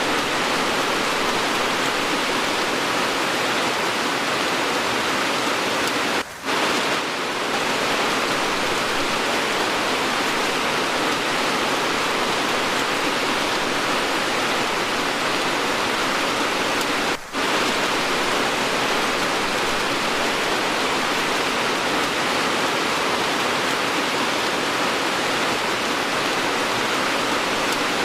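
Steady, dense rainfall, an edited rain sound track, with a brief dip in loudness twice, about 6 seconds and about 17 seconds in.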